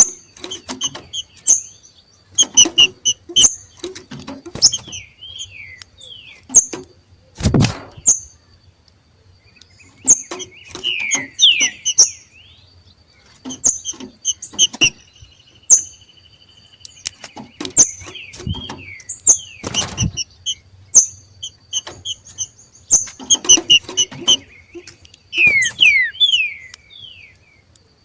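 Two green-winged saltators (trinca-ferro) giving their 'macheado' call, the excited breeding-season call: bursts of short sharp notes and quick downslurred chirps, with pauses between them. There are clicks among the calls, and two louder thumps, one about a third of the way in and one about two thirds in.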